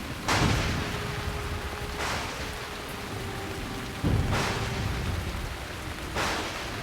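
A rain-like rushing noise with a low rumble, swelling in surges about every two seconds.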